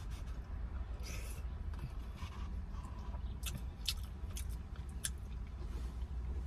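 A person chewing a mouthful of ramen noodles, with sharp wet mouth clicks scattered through, over a steady low rumble.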